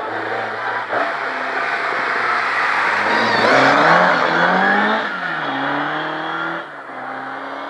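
Rally car engine at full throttle passing at speed: the engine note climbs as it approaches, is loudest about four seconds in, drops about five seconds in, climbs again, then fades away near the end.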